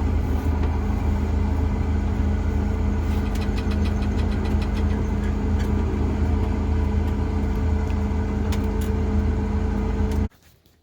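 Combine harvester's engine running steadily, with a brief run of quick even ticking about a third of the way through; the sound cuts off suddenly near the end.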